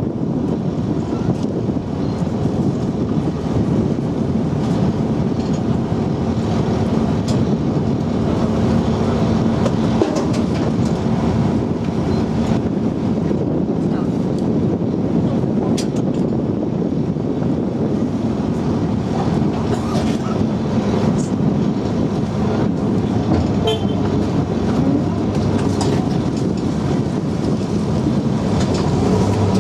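Engine of a Type 94 amphibious mine-laying vehicle running steadily under way, a constant droning hum with a low steady pitch.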